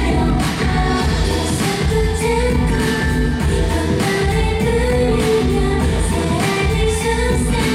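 K-pop dance song with female vocals over a steady beat, played loud through a PA system.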